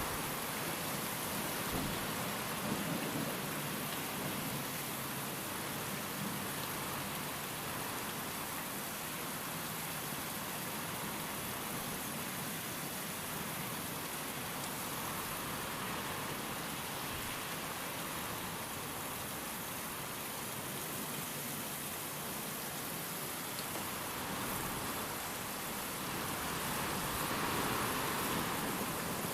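Steady rain with wind: an even, continuous hiss of rainfall that swells slightly near the end.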